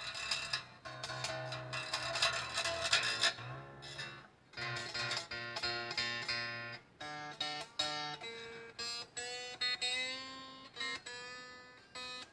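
Electric guitar strings strummed and plucked: chords for about the first four seconds, then single notes picked one after another, some held notes creeping slightly up in pitch.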